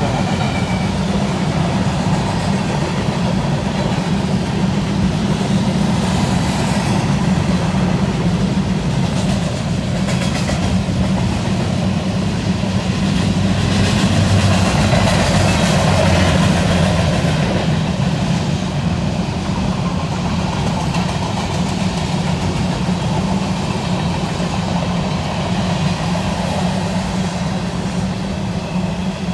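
Covered hopper cars of a freight train rolling past, a steady rumble and clatter of steel wheels on the rails that swells a little about halfway through.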